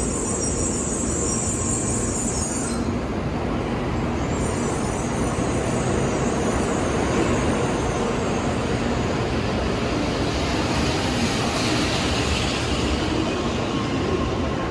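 Shinkansen bullet train running, a steady rumble and rushing noise of the ride. A high hiss in it drops away about three seconds in and comes back a second and a half later.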